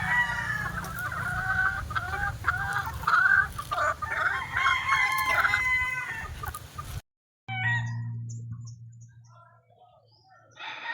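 Roosters crowing and clucking, several calls overlapping, for about seven seconds; the sound then cuts off abruptly and a quieter stretch follows, with a low steady hum and a few faint calls.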